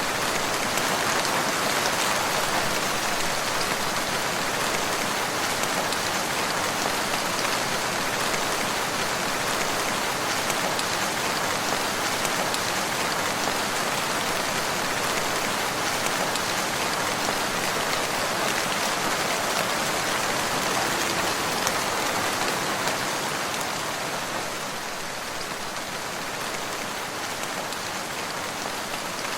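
Steady rain falling, a dense even patter of drops on surfaces, dropping a little in level near the end.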